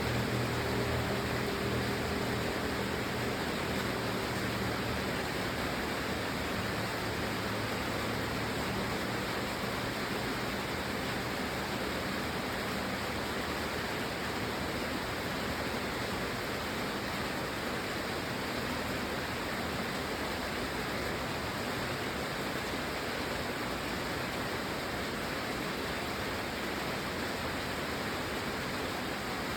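Steady rain, an even unbroken hiss with no single drops standing out. A low pitched hum fades out in the first few seconds.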